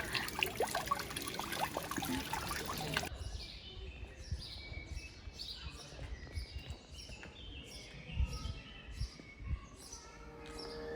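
Cold running water splashing for about three seconds. After an abrupt cut, small birds chirp over and over in short, falling calls.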